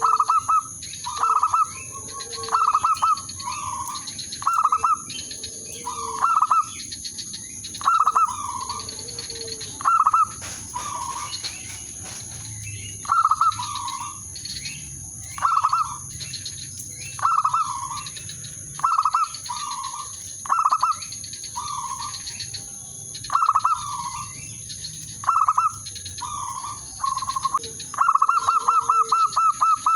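Zebra dove cooing: short, rippling coo phrases repeated about every one to two seconds, the territorial call of a lure bird used to draw rival males. Fainter chirps from other small birds and a steady high-pitched hiss run underneath.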